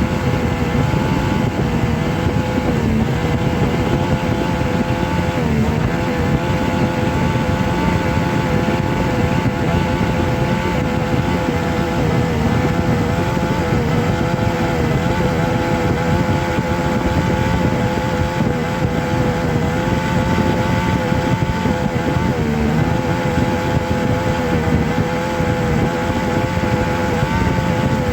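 A motor running steadily, a continuous drone whose pitch wavers slightly.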